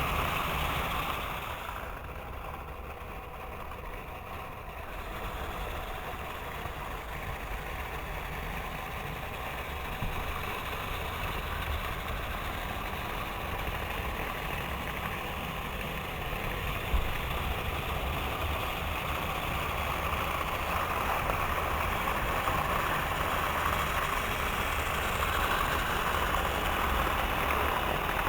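Several model trains running around a track: a steady mechanical whir of small motors and wheels, which softens for a few seconds near the start. There is a single sharp click about two-thirds of the way through.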